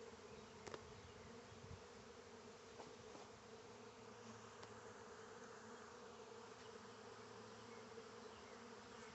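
Faint, steady buzzing of a honeybee swarm, many bees flying close by.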